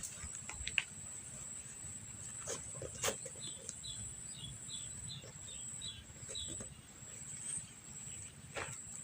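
Quiet rural ambience: a steady high-pitched insect drone, with a bird giving a run of about ten short, evenly spaced chirps in the middle, over a low rumble and a few faint clicks.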